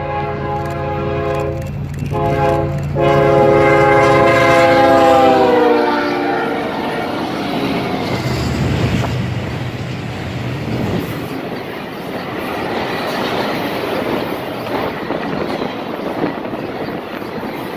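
Freight train's diesel locomotive air horn blowing several blasts, the last one long, its pitch dropping as the locomotives go by about six seconds in. Then the steady rumble and clickety-clack of an intermodal train's trailer-carrying flatcars rolling past at speed.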